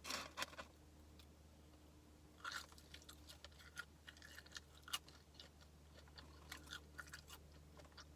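A person chewing fried fast food close to the microphone, with soft crunches and mouth clicks. It is most distinct at the very start and again about two and a half seconds in.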